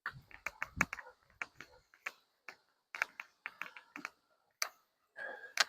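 Irregular sharp clicks and light knocks, some in quick clusters of two or three, with short gaps between.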